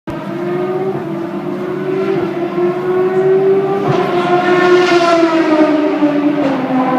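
The Honda RA121E 3.5-litre 60-degree V12 of a 1991 McLaren Honda MP4/6 Formula One car running at a high idle. Its pitch rises slowly, then drops about six and a half seconds in.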